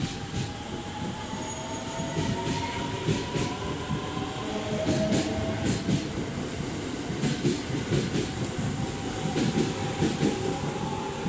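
A 681 series electric express train pulling out and picking up speed: a low rumble of the cars rolling past, wheels clacking over rail joints, and a thin whine from the traction motors that rises slowly in pitch as it accelerates.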